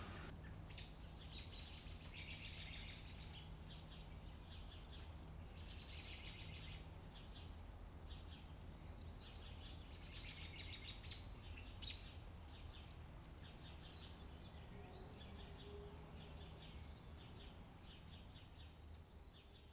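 Faint birds chirping, in bursts of quick twittering a few seconds apart, over a low steady hum; it all fades out near the end.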